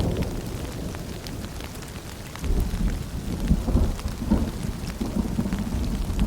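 Rain falling with scattered drips, under a deep rolling rumble of thunder that eases off and then swells again about two and a half seconds in.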